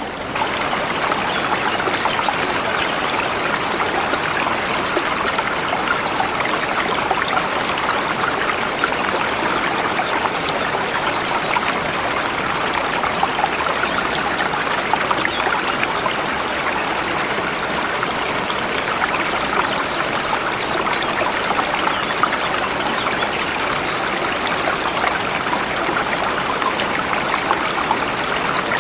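Forest river flowing over smooth rocks: a steady, unbroken rush of water.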